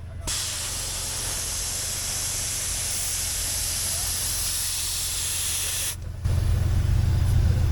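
Air hissing steadily out of a 4x4's tyre valve as the tyre is aired down for snow driving. It breaks off briefly about six seconds in, then goes on more faintly over a steady low hum.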